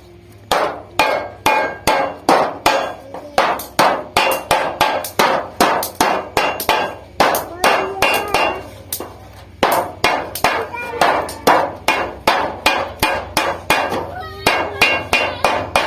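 Hammer blows on thin refrigerator sheet steel, folding a seam. The strikes come steadily, about two a second, each with a metallic ring, and there is a short pause a little past the middle.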